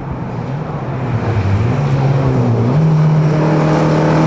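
Rally car engine approaching on a gravel stage, growing louder, its note rising in two steps.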